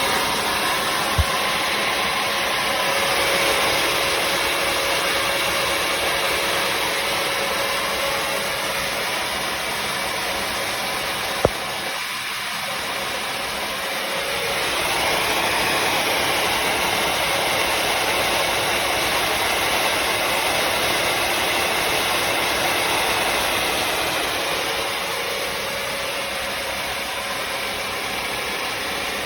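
Bissell CrossWave HydroSteam wet-dry floor cleaner running, its suction motor and brush roll giving a steady, loud motor noise with a faint steady hum in it. Two short sharp clicks, one about a second in and one near the middle.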